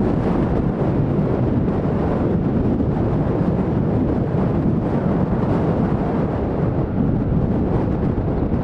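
Steady jet noise from a WestJet Boeing 737-700's CFM56 turbofans as it comes in to land, mixed with wind buffeting the microphone.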